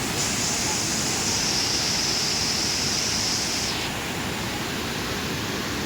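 Waterfall rushing: a steady, even roar of falling water. Over it a high, steady buzz starts just after the beginning and stops a little past halfway through.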